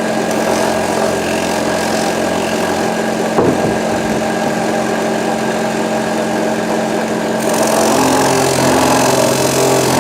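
Electric polishing machine running steadily with a buffing mop on stainless steel, a constant motor hum. About seven and a half seconds in it turns hissier and a little louder.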